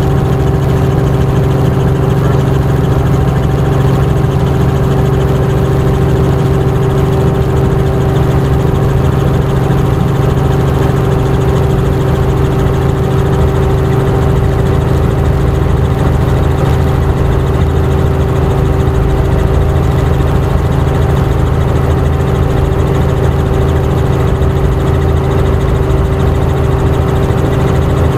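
Helicopter engine and rotor running steadily, heard from inside the cabin: a constant loud drone with a steady hum, unchanging throughout.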